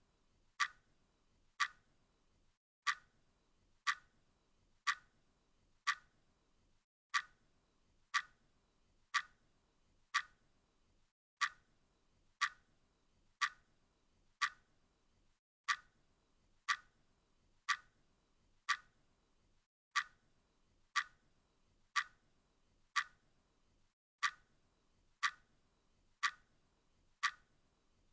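Clock ticking steadily, one sharp tick about every second, in a short recording looped over and over.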